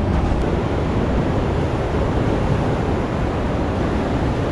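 Steady rushing of wind and ocean surf, with wind buffeting the microphone.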